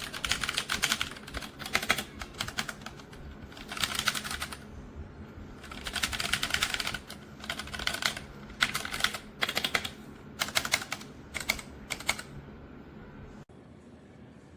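Typing on a Redragon K617 Fizz 60% mechanical keyboard: fast keystroke clatter in several bursts with short pauses between them, stopping about twelve seconds in.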